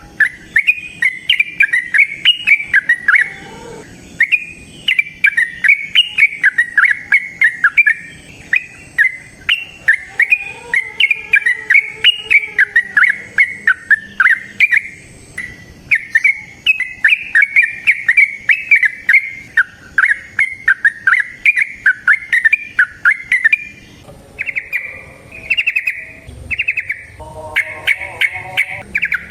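Yellow-vented bulbul (trucukan) singing a long, unbroken run of quick chattering phrases, the notes tumbling up and down several times a second. About 24 seconds in, the song changes to shorter, dense repeated trills.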